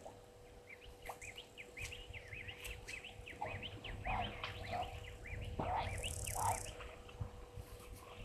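Birds calling: a rapid run of short, high, arched chirps for several seconds, with a few lower calls mixed in midway. Under them runs a steady faint hum and a low rumble, and there is a brief high hiss about six seconds in.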